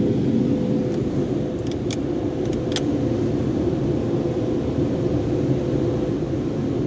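Sonny's car wash tunnel equipment running: a steady, dense low noise with a faint steady hum, and a few faint ticks about two to three seconds in.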